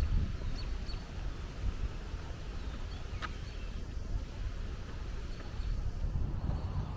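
Outdoor ambience: a steady low rumble with a few brief bird chirps, one sharper call about three seconds in.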